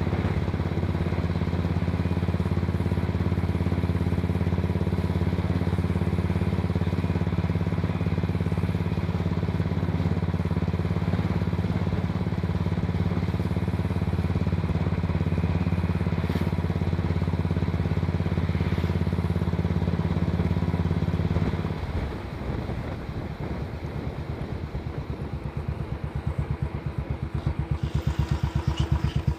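Royal Enfield 500cc single-cylinder engine running steadily as the motorcycle is ridden. About two-thirds of the way in the throttle closes and the engine falls to a slower, separate thump of single beats, then it grows louder again near the end as the rider picks up speed.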